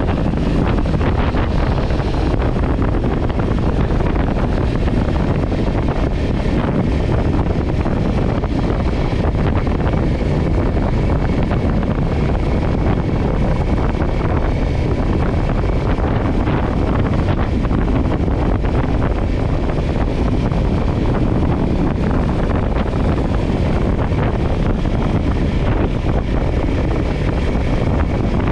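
Steady wind rushing and buffeting over a GoPro microphone on a moving motorcycle, with a Kawasaki Ninja 400's parallel-twin engine running underneath.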